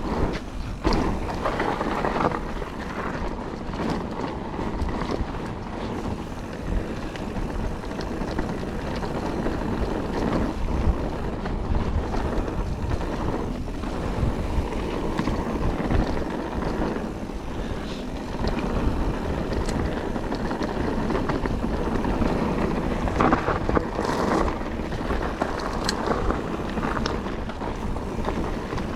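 Calibre Triple B mountain bike ridden over dry, loose trail: tyres rolling on dirt and stones and the bike rattling and knocking over bumps, with wind rushing over the GoPro's microphone.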